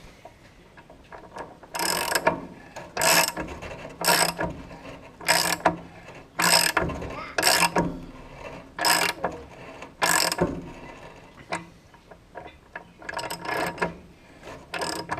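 Hand socket ratchet clicking through repeated back-swings, about one stroke a second with a short pause about two-thirds of the way through, as a heat-loosened bolt is backed out.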